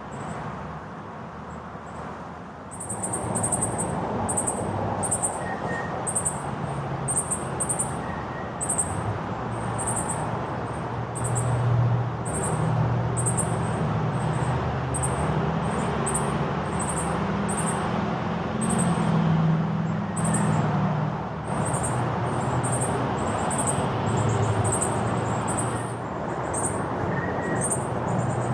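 A bird repeats a short, high chirp about once a second over a steady low rumble.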